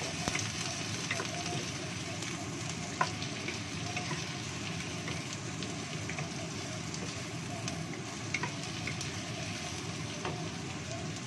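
Sliced shallots and garlic sizzling in hot oil in a wok, stirred with a spatula that clicks against the pan now and then.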